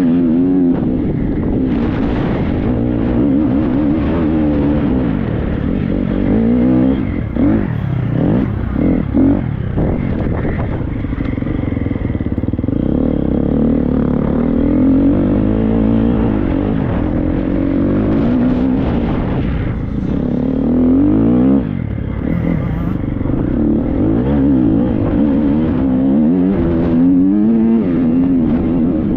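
Triumph TF 250-X four-stroke single-cylinder motocross bike ridden hard, its engine revving up and dropping back over and over as the rider works the throttle and gears, with brief shut-offs a few times. Wind buffets the helmet microphone.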